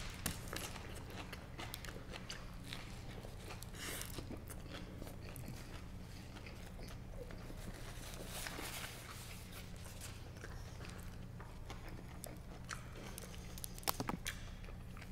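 A person biting into a sub sandwich and chewing it close to the microphone: soft, wet chewing clicks and smacks that come in clusters, with a louder bite at the start and again near the end. A low, steady hum runs underneath.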